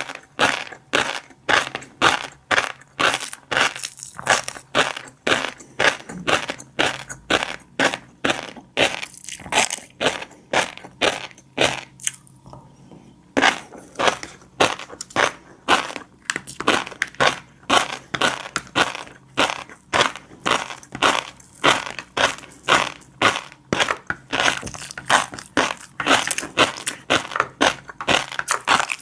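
Close-miked chewing of fish roe, the eggs popping and crunching between the teeth in rapid crisp clicks, a few per second. There is a pause of about two seconds a little before halfway.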